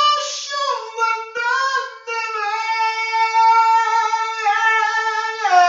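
A single high voice singing unaccompanied, in Hebrew, with a short sung phrase that settles into one long held note through the second half.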